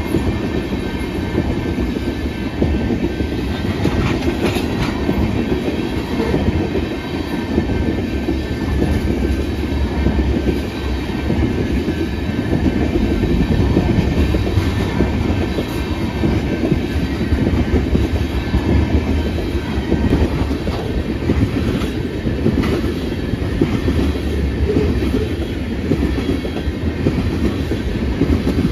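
Freight train of tank cars rolling steadily past: a continuous rumble of wheels on rail with rhythmic clacking over the rail joints.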